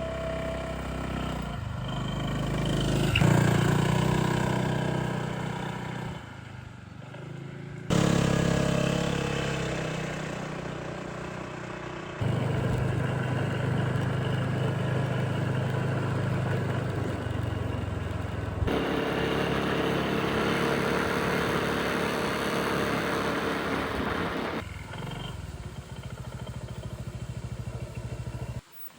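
A motor engine, like a motorcycle's, running steadily in a series of abruptly cut segments, its pitch shifting slightly from one segment to the next.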